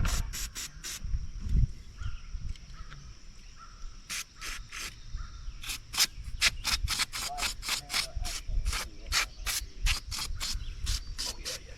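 Quick scrubbing strokes, roughly three a second, while the string trimmer is cleaned down.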